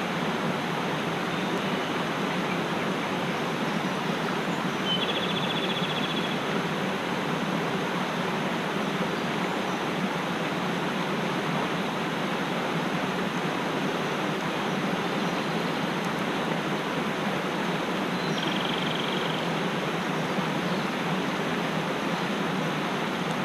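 Mountain stream rushing steadily. A small bird gives a short, rapid trill twice, about five seconds in and again about eighteen seconds in.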